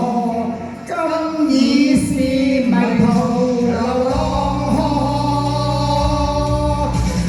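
Cantonese pop song played through a PA system, a held, gliding sung melody over the backing track, with a heavy bass line coming in about four seconds in.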